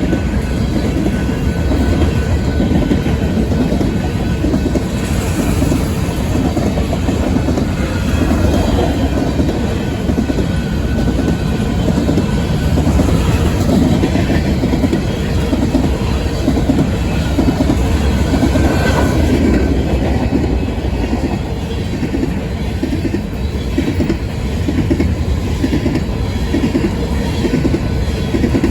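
Empty grain hopper cars of a BNSF freight train rolling past close by, the wheels clacking steadily over the rail joints.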